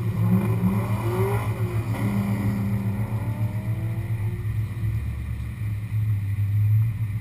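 Muscle car V8 engines at an autocross: a steady low engine rumble, with another car's engine note climbing and dropping through the gears during the first few seconds as it runs the course.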